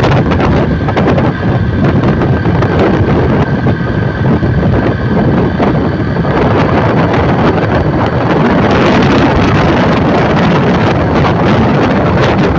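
Strong wind buffeting the microphone in a steady, loud rush.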